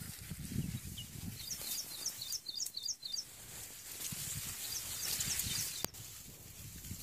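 A bird calling in quick series of short, high chirps, six or seven notes about a second and a half in and a shorter run near five seconds, over low rustling noise.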